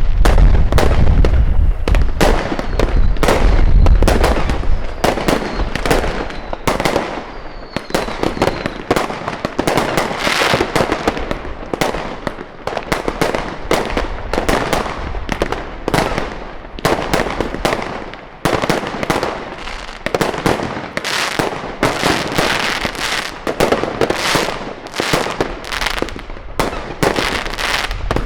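Fireworks going off in dense succession: sharp bangs and crackling follow one another with hardly a break, with heavy deep booms in the first few seconds. A faint whistling glide comes about eight seconds in.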